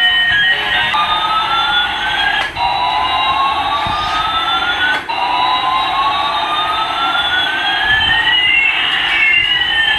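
Electronic siren-like sound effect from a toy's small speaker: two tones glide against each other, one rising and one falling, and the pattern restarts every few seconds.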